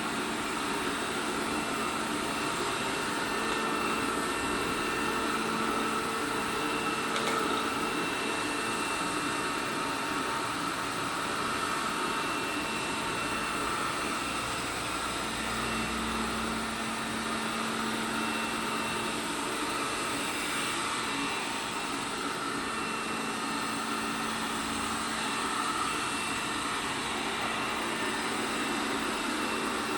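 ELARI SmartBot Lite SBT-002A robot vacuum running: a steady whir of its suction motor and brushes, with a constant motor hum.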